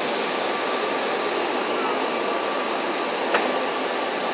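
Automatic car wash gantry dryer blowing air over the car, a steady rush heard from inside the car's cabin, with a single short click about three seconds in.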